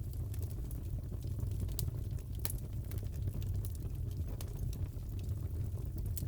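Fireplace fire crackling: a steady low rumble of burning wood with irregular sharp pops and snaps.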